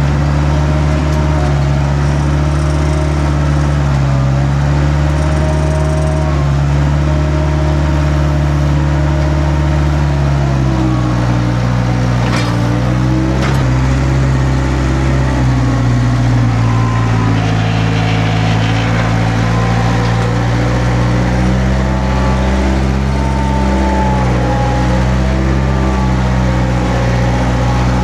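Skid steer engine running steadily while working, its pitch dipping and shifting about ten seconds in and changing again later, with two sharp knocks about halfway through.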